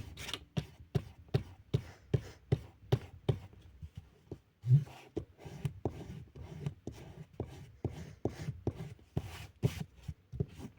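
Fine-tip liner pen scratching on paper in quick, short, repeated strokes, about two to three a second. One louder low thump comes a little before halfway.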